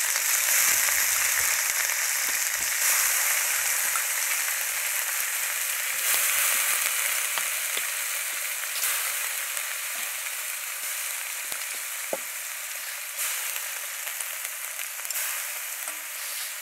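Small dried fish sizzling as they fry in a wok, a steady hiss with scattered faint ticks that slowly eases off.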